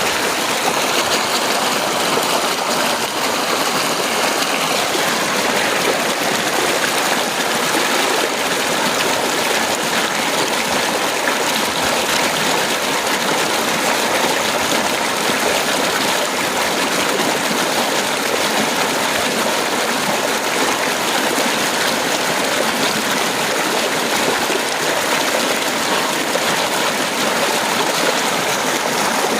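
Heavy rain pouring steadily, a dense even hiss with no thunder.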